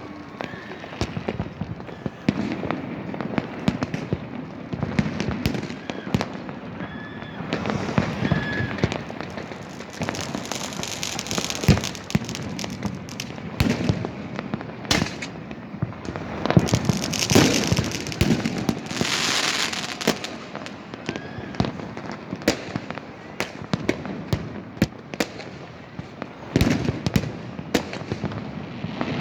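New Year fireworks and firecrackers going off in a continuous barrage of bangs and pops, many overlapping. Twice, about ten and seventeen seconds in, a spell of dense crackling rises over the bangs.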